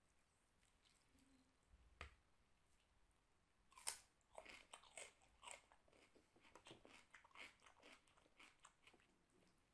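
A bite into a raw cucumber just before four seconds in, then rapid crunchy chewing of it, several crunches a second.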